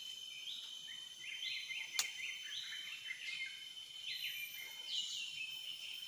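Forest songbirds calling: a run of short chirping notes that slide up and down, repeated about every half second, over a faint steady high insect whine. One sharp click about two seconds in.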